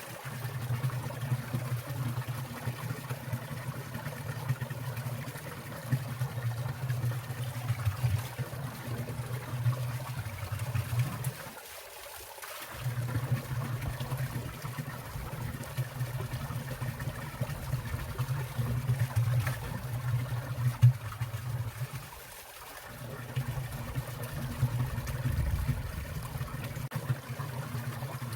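Water in a winter mountain stream trickling and falling among icicles and ice, a continuous splashing rush. A steady low rumble underneath drops out briefly twice.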